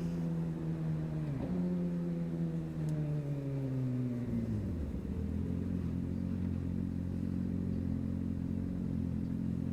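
Motorcycle engine dropping steadily in pitch as the bike slows, then settling into a steady idle about five seconds in.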